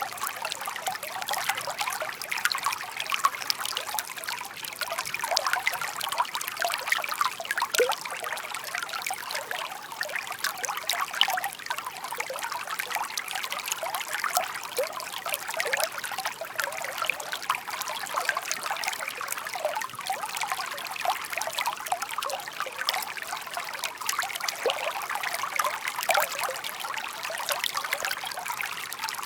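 Shallow stream babbling over stones: a continuous trickling, gurgling wash of small splashes and droplet plinks.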